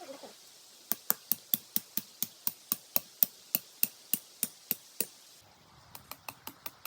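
A rapid series of sharp, evenly spaced taps, about three a second, with a short pause near the end.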